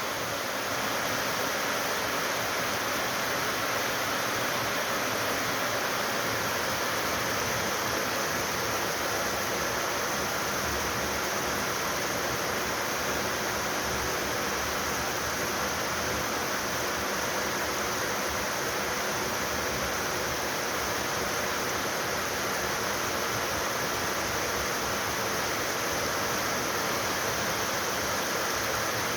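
Steady rainfall, an even hiss of rain that holds at one level throughout.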